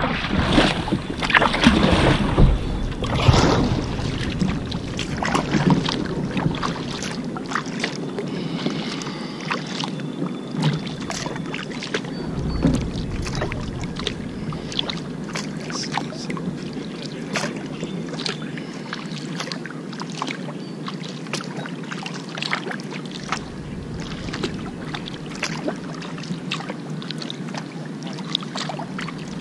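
Kayak paddling: the paddle blades dipping and splashing, with water dripping and trickling in many short ticks. The splashing is loudest in the first few seconds.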